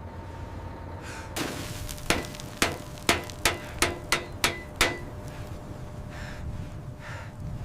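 Hammer striking metal: a single knock, then eight quick blows at about three a second, each ringing briefly.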